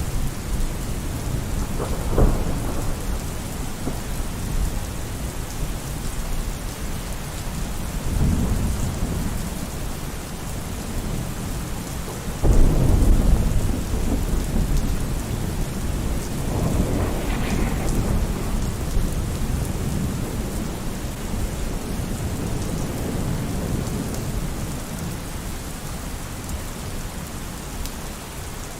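Steady heavy rain with rolling thunder. A sharp crack comes about two seconds in, then rumbles follow; the loudest and longest begins about twelve seconds in.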